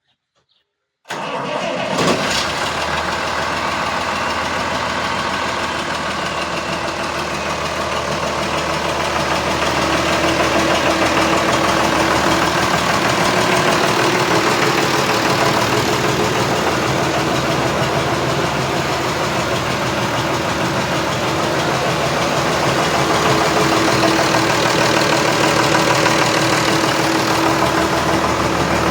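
John Deere 6600 tractor's repaired diesel engine running. It comes in abruptly about a second in with a brief louder burst, then runs steadily, getting slightly louder after about ten seconds.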